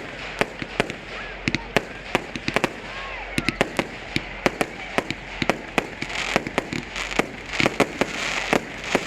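Fireworks display going off: a rapid, irregular string of sharp bangs and cracks, several a second, over a steady crackle.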